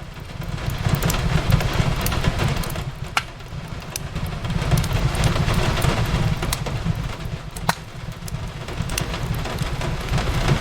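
Steady rain falling on a window, with a low rumble that swells and eases every few seconds, and the sharp pops and crackles of a wood fire, two louder pops about three and eight seconds in.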